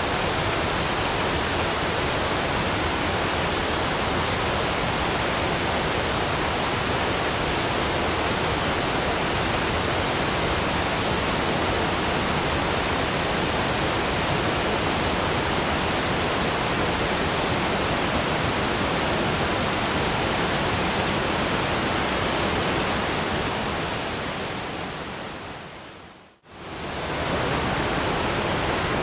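Steady, even rushing noise of a brown-noise relaxation track, like a waterfall's hiss. Near the end it fades down to silence over a few seconds and fades straight back up, like the join of a loop.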